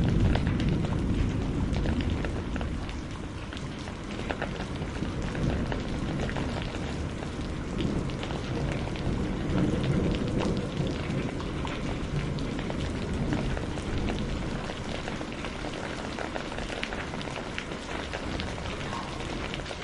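Steady rain with many drops pattering, under a low rumble of thunder that is loudest at the start, fades over the first few seconds and swells again around the middle.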